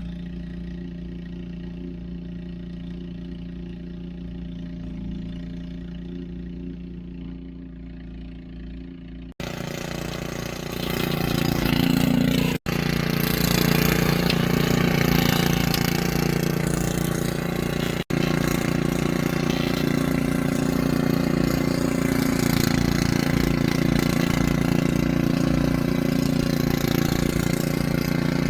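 An engine running steadily with a low hum. About nine seconds in, the sound breaks off and returns much louder with a rushing noise over the hum, breaking off briefly twice more.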